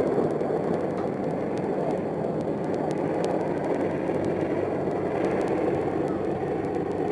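Steady, even engine and rotor noise from an AH-64 Apache attack helicopter in flight, with a few faint clicks.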